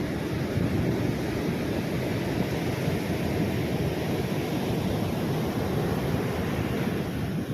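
Ocean surf and wind with wind buffeting the microphone: a steady, deep rush of noise with no separate events.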